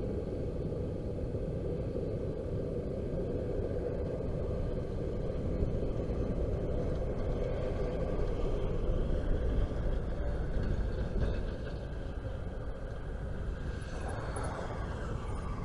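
Low, steady rumble of a bilevel passenger train running away down the track.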